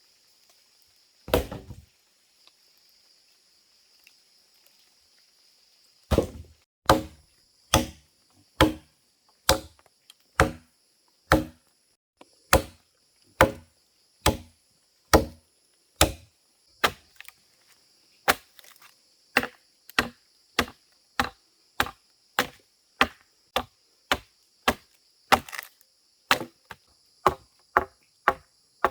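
Chopping wood with a blade: one stroke, a pause of a few seconds, then a long run of steady chops about one a second that quicken toward the end. A steady high insect buzz runs underneath.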